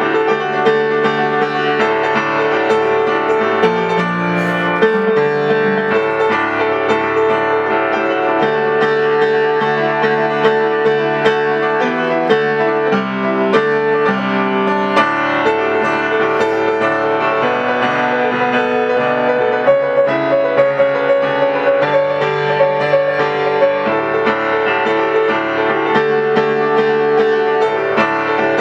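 Solo piano playing a continuous, busy passage of many notes with sustained chords.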